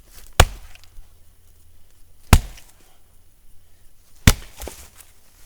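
Axe striking rounds of dense hardwood to split them: three sharp chops about two seconds apart.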